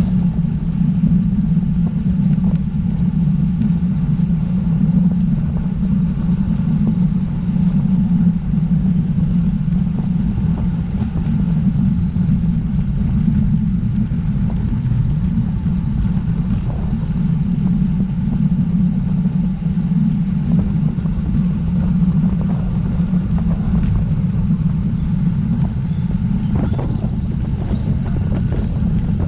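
Steady, loud wind rumble on the microphone as a road bike descends at speed.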